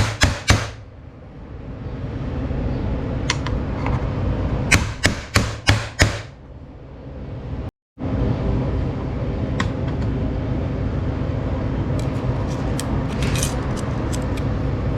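Two quick runs of sharp metal taps, then, after a brief cut, a steady metal-on-metal rasp of a mushroomed lip on a 42RE transmission part being filed down so a worn washer can come off.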